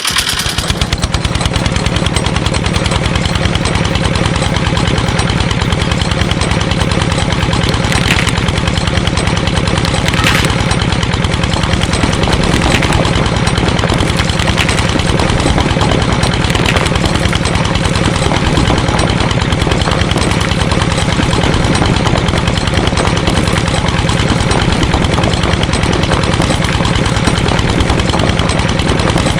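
Small engine running steadily with a fast, even chugging, and a few faint clicks in the middle.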